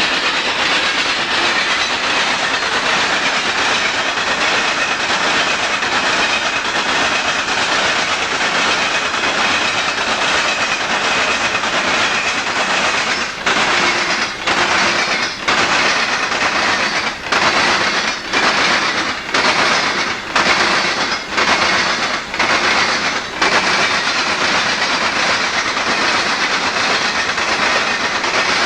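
Freight train rolling past: a steady loud rush of steel wheels on rail. Through the middle stretch it dips and swells about once a second as cars go by.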